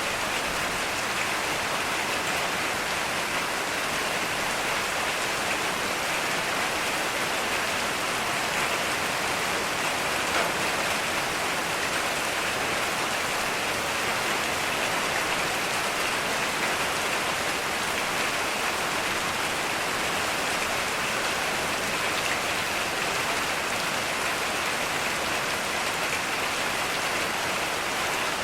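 Steady heavy rain falling, an even unbroken hiss of rain on surfaces.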